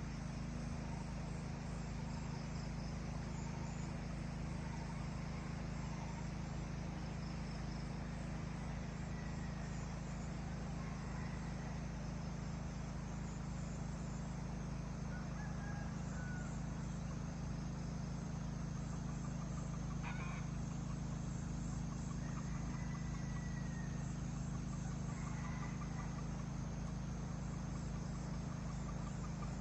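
Faint, scattered calls of chickens and other birds over a steady low rumble, with a single sharp click about two-thirds of the way through.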